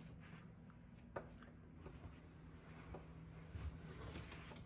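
Faint, scattered sharp taps, a bird pecking at window glass, one about a second in and a few close together in the second half, over a low steady room hum.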